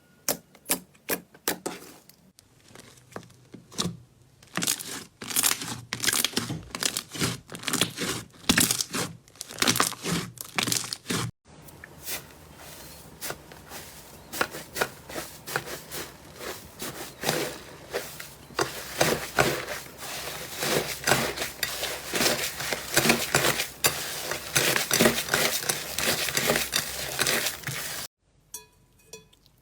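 Slime being pressed, squished and stretched by hand. It makes sharp crackles and pops, sparse at first, then a dense run of crackling after an abrupt cut about eleven seconds in.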